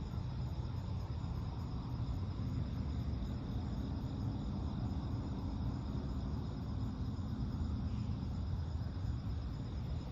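Crickets chirping steadily over a continuous low rumble, with a faint low hum coming and going in the middle.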